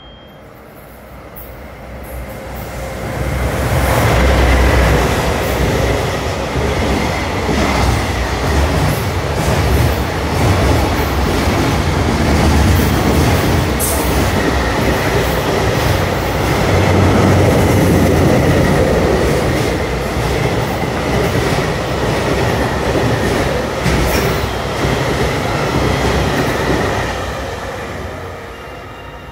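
An EF210 electric locomotive hauling a long container freight train through a station without stopping. The rumble of wheels on rail builds over the first few seconds as the locomotive arrives, holds steady for over twenty seconds as the wagons run past with a thin high tone above the rumble, then fades near the end as the last wagon goes by.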